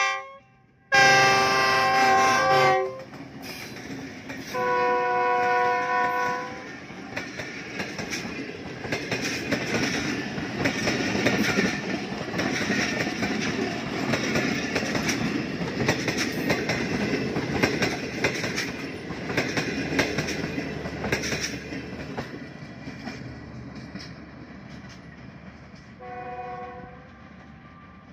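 GE U20 diesel-electric locomotive's multi-tone air horn sounding two blasts of about two seconds each in the first few seconds, then the express train passing close: a loud rush of rolling noise with wheels clicking over the rail joints, fading after about twenty seconds as the train draws away. A fainter, shorter horn blast comes near the end.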